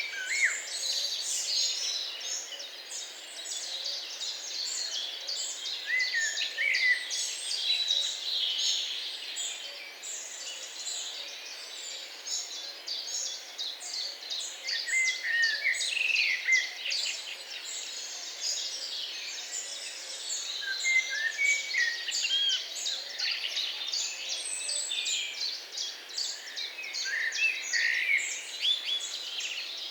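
Many small songbirds singing at once: a dense, continuous stream of quick high chirps and trills, with a louder whistled phrase that sweeps up and down breaking through every few seconds.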